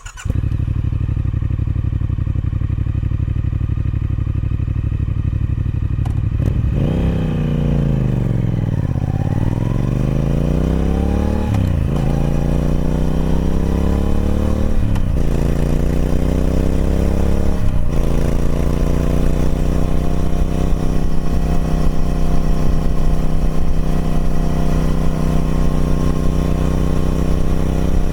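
Triumph Speed Twin 1200's 1200cc parallel-twin engine through its stock exhaust, running steadily at idle. About six seconds in, the note dips and then climbs as the bike pulls away, rising through three gear changes, each marked by a sharp drop in pitch, before settling into a steady cruise.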